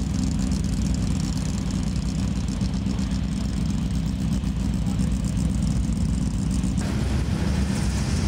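Classic rally car engines running steadily at low revs, a low even hum. The sound shifts abruptly about seven seconds in, with more hiss on top.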